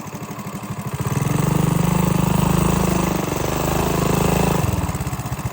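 Minibike's small single-cylinder engine running, its rapid exhaust pulses getting louder as it is throttled up about a second in, then easing off near the end.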